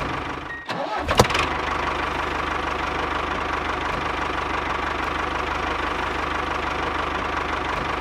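An engine starting with a short clatter about a second in, then idling steadily with an even low chug.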